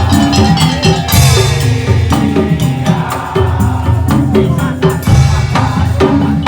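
Madurese tong-tong (ul daul) ensemble playing: dense, fast percussion over heavy bass drums with a melodic line, and a bright crash about a second in and again about five seconds in.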